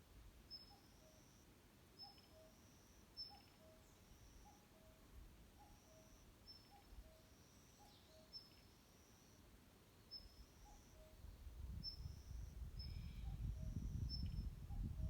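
Faint forest birdsong: a short high note repeated about once a second, with a lower call of paired notes repeating steadily beneath it. A low rumble builds up over the last few seconds.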